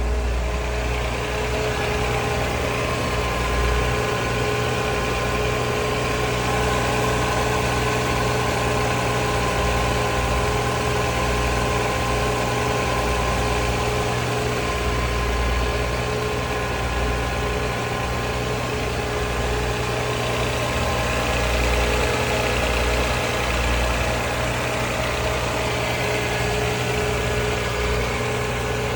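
Audi B5 RS4's 2.7-litre twin-turbo V6 idling steadily, still warming up after a cold start.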